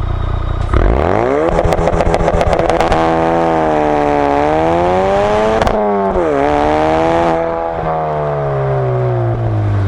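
2016 Ford Focus RS's 2.3-litre turbocharged four-cylinder launching hard from a standstill on launch control: the engine note climbs steeply with a rattle of clicks, breaks sharply at a gear change about six seconds in, climbs again, then falls away as the driver eases off.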